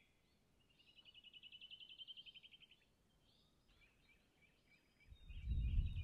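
A small bird's faint, rapid trill of evenly spaced notes, lasting about a second and a half, then a few fainter chirps and a second short trill near the end. A low rumble rises near the end.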